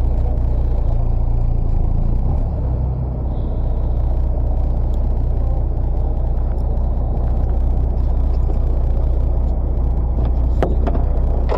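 Steady low drone of a fishing boat's engine running, with a few sharp knocks near the end.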